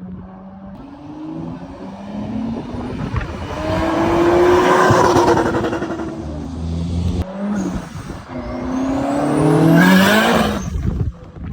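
Car engines accelerating hard, the pitch climbing and then falling away, in two separate loud runs with an abrupt change about seven seconds in.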